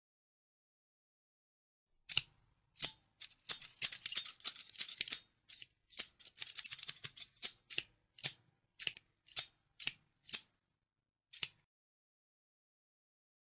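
Scissors snipping. About two seconds in a rapid run of quick crisp snips begins, thins out to single snips roughly every half second, then stops.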